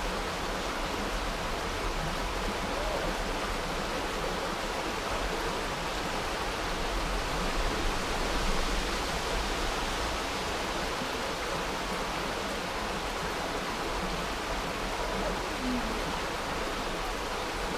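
Steady rushing of creek water, an even wash of noise with no breaks.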